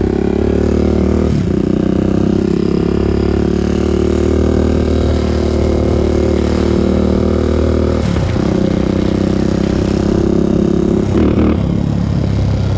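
2001 Honda TRX400EX quad's single-cylinder four-stroke engine running loud while riding, its note mostly steady with brief dips about a second and a half, eight and eleven seconds in.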